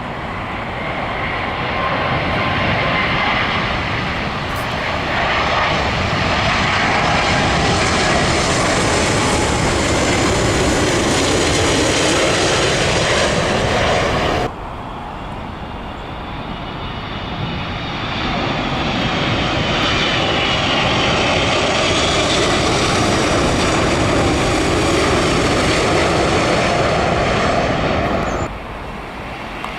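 Jet airliners on final approach passing low overhead, their engines making a loud rush with whining tones. The first pass cuts off suddenly about halfway through, and a second builds up and cuts off suddenly near the end.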